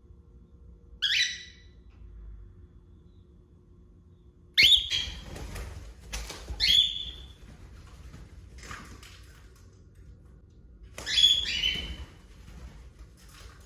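A cockatiel calling: five short, high calls spaced a couple of seconds apart, the loudest about four and a half seconds in and again near the end, with rustling noise around them.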